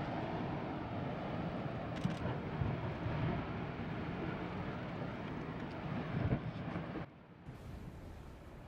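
A glacier collapsing: a steady low rumble of breaking and falling ice, which drops away abruptly about seven seconds in to a quieter hiss.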